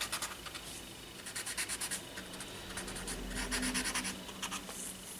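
Paper tortillon (blending stump) rubbing graphite on paper in faint, quick, short back-and-forth strokes, softening a pencil shadow line.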